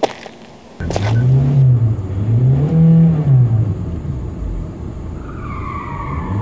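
Car engine revved up and down twice, starting with a sharp click about a second in. A high squeal like tires skidding sets in near the end.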